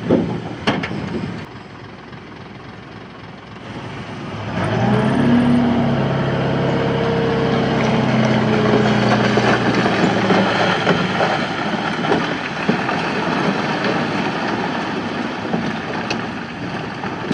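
A heavy diesel engine of earth-moving machinery revs up about four seconds in and keeps working hard under load. There are a few sharp clanks in the first second.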